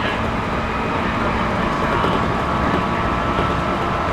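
Series 211-5000 electric multiple unit running between stations, heard from inside the passenger car: a steady rumble of wheels on rail, with a faint steady tone.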